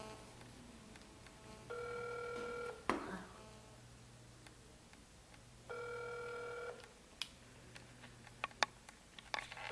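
Ringing tone of a telephone call heard through a phone's speaker: about one-second two-pitch rings roughly every four seconds while the line waits to be answered, with a few faint clicks between them.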